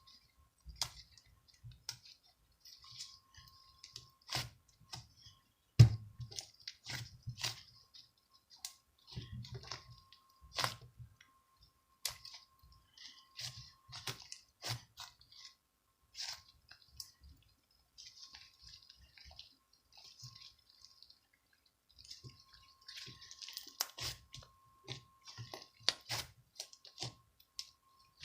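Irregular clicks and taps, some with a dull low knock beneath them, the loudest about six seconds in.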